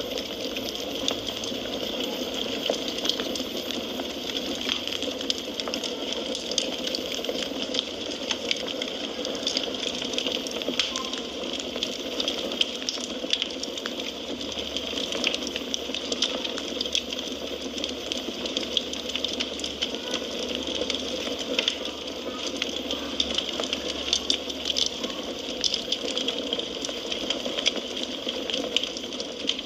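Wood fire crackling in a fireplace: a steady hiss of burning with frequent sharp pops and snaps scattered irregularly throughout.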